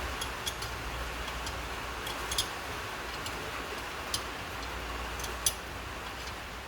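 Steady hiss of heavy rain on a workshop roof, with a few irregularly spaced sharp ticks over it, the loudest about five and a half seconds in.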